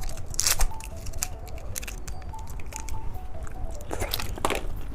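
Candy packaging being handled: a few sharp crinkling, tearing rustles, one about half a second in and two more near the end, over a soft background music melody.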